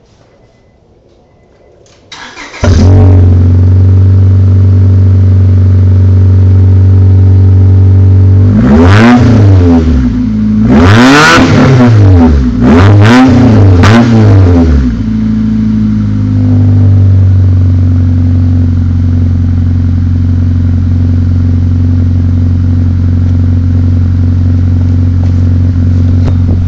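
Honda Accord engine cranking and catching about two and a half seconds in, then idling loudly through a modified exhaust that runs from a single resonator into open pipes ending in square tips. It is revved three times in the middle, each rev rising and falling, before settling back to a steady idle.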